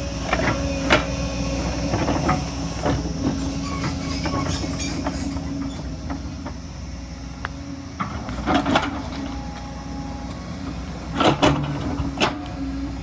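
Excavator's diesel engine running steadily under load, with many short metallic clanks and knocks of the machine working rock and soil; the loudest knocks come a little past the middle and again near the end.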